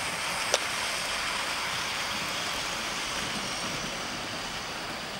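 Model trains running around a layout, a steady running noise of wheels on track, with one sharp click about half a second in.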